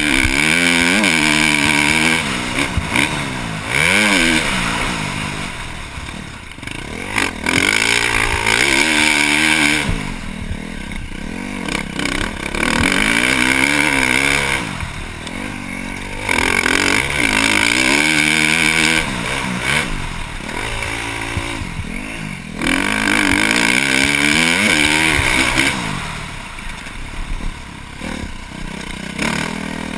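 2012 KTM 350 SX-F motocross bike's single-cylinder four-stroke engine through a Yoshimura exhaust, being ridden hard. Its pitch climbs and drops over and over, with loud stretches on the throttle of about two seconds each between quieter moments off it.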